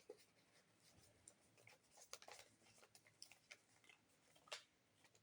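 Faint, scattered rustles and crinkles of folded paper being handled and pushed into a slot.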